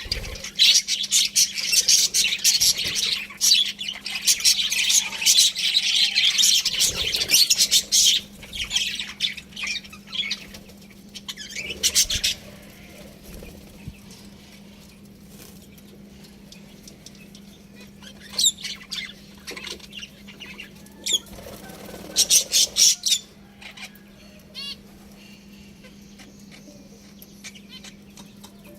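Budgerigars chirping and chattering in rapid high twitters, busy for about the first twelve seconds, then only a few short bursts, and quieter near the end. A steady low hum sits underneath.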